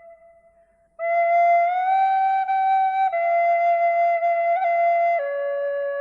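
Slow, calm solo melody on a flute-like wind instrument, played as long held notes. The sound starts with a note fading into about a second of quiet, then four notes follow one after another, stepping up and then down.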